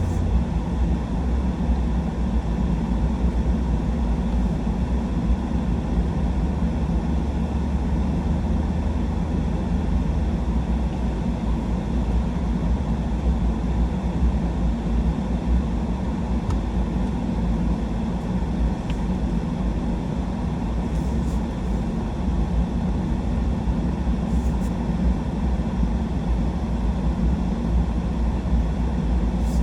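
Steady engine and road rumble heard from inside a truck's cabin while driving, with a few faint ticks.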